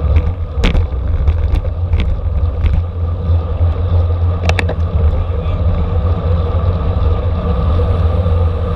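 Wind buffeting the microphone of a camera moving at bike-racing speed: a steady low rumble, with a few sharp clicks scattered through the first five seconds.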